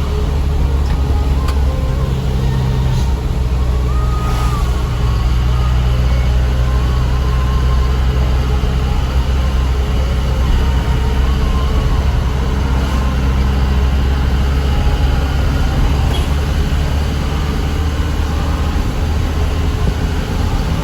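Truck engine running steadily, a low continuous drone that shifts slightly in pitch near the end.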